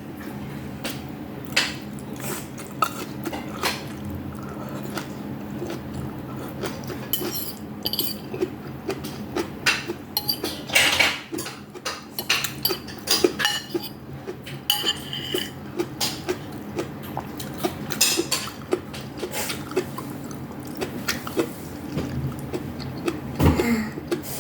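Cutlery clinking and scraping against dishes during a meal, with irregular clicks all through and a steady low hum underneath.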